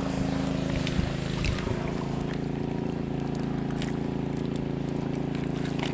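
Farm tractor engine running steadily at constant speed while it drives a water pump, with a few faint clicks and knocks over it.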